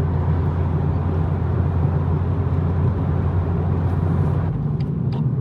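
BMW M240i's B58 turbocharged straight-six running with a steady low drone. About four and a half seconds in the drone drops back, and a few light clicks follow.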